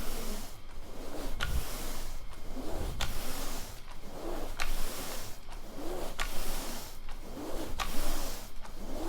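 Rug grooming brush scrubbed back and forth across a freshly cleaned, damp rug's pile, working protector evenly into the fibres. Regular strokes come a little faster than once a second, each with a scratchy scrubbing sound.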